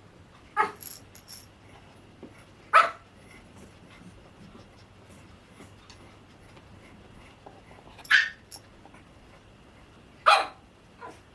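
Pomeranian puppy giving four short, high, sharp barks, spaced a couple of seconds or more apart, with a fainter yip near the end.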